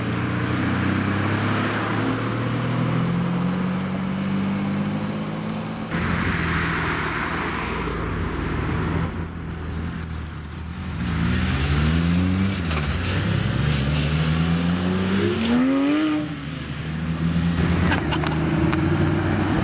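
Supercar engines pulling in at low speed, with a steady exhaust note and two throttle blips in the second half that rise and fall in pitch. A brief high-pitched squeal sounds about nine to ten seconds in.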